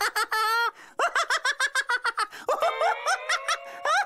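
A cartoon character's high-pitched laughter: a wavering squeal at the start, then a run of quick ha-ha bursts.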